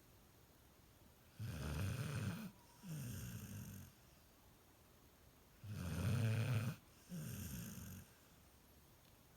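Golden retriever puppy snoring in its sleep: two snores about four seconds apart. Each is a pair of breaths, and the second breath of each falls in pitch.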